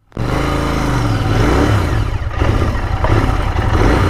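Royal Enfield Continental GT650's parallel-twin engine running at low speed, with a slight rise and fall in pitch about half a second in.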